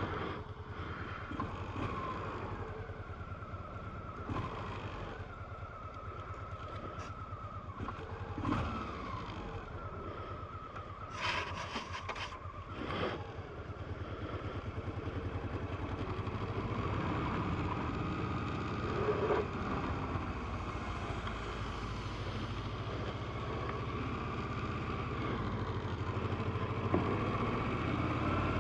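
Honda PC800 motorcycle's V-twin engine running while riding, its pitch rising and falling through the throttle and gear changes, with a few sharp knocks partway through. It grows gradually louder toward the end.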